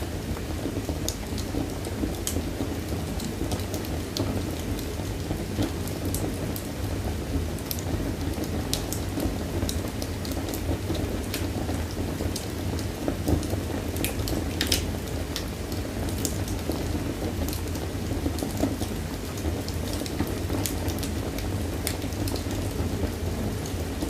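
Wood fire burning in a fireplace: a steady low rush with irregular sharp crackles and pops throughout, a few louder pops around halfway through.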